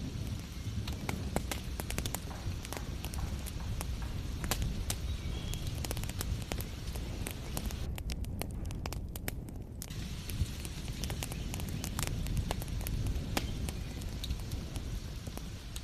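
Wood fire crackling, with many irregular sharp pops over a steady low rumble.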